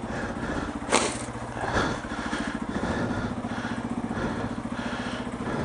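Yamaha TW200's single-cylinder four-stroke engine idling steadily in neutral, with a couple of short knocks about one and two seconds in.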